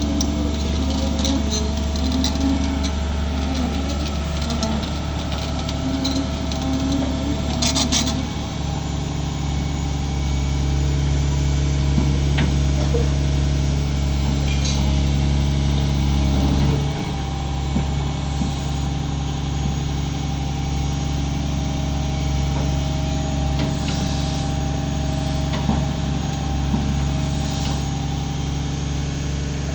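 An engine running steadily, its note shifting twice, with scattered clicks and knocks over it.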